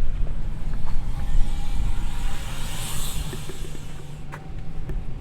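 A car driving past, its noise swelling to a peak about three seconds in and then fading, over a steady low rumble.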